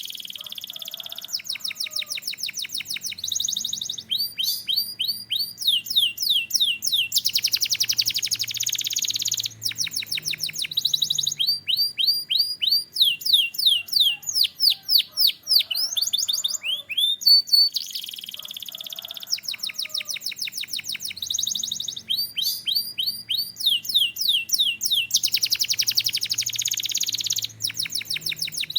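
Canary singing a continuous song of rapid repeated whistled notes that sweep in pitch, with two long, fast buzzing trills, one a third of the way in and one near the end.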